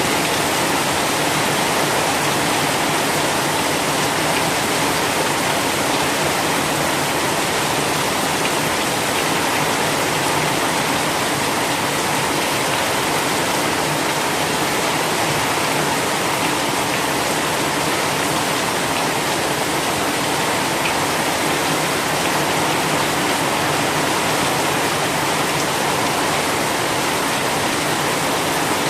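Heavy rain pouring steadily: a dense, even hiss with no pauses or separate drops standing out.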